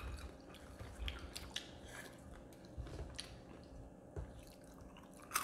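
Faint chewing of crispy fried chicken, with scattered small crunchy clicks.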